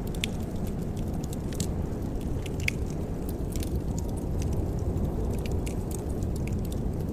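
Wood fire crackling in a fireplace: scattered sharp pops and snaps, irregularly spaced, over a steady low rumble.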